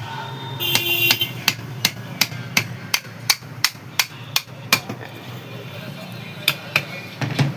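Sharp metal taps on a mixer grinder motor, about three a second for a few seconds, with a brief metallic ring near the start and a few more taps near the end, as the opened motor's parts are knocked apart.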